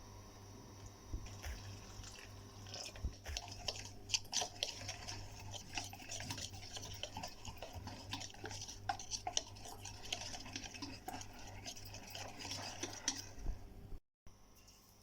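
Spoon stirring and scraping in a mixing bowl: a busy run of quick clinks and scrapes starting a couple of seconds in, which breaks off abruptly near the end.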